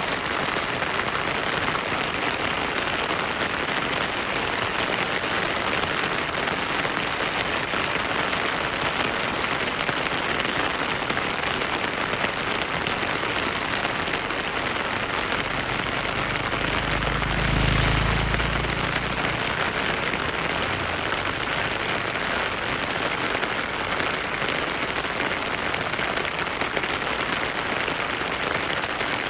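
Heavy rain falling steadily in a forest, a dense even hiss, with a stream flowing beneath it. A low rumble swells for about two seconds a little past halfway.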